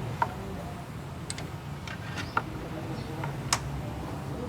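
Hand tools clicking and tapping on car suspension parts, about half a dozen sharp clicks at uneven intervals over a low steady hum.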